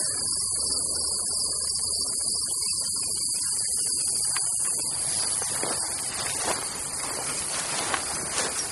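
Steady high-pitched chorus of crickets and other insects. About halfway through, irregular crackling rustles of movement through grass and brush join in.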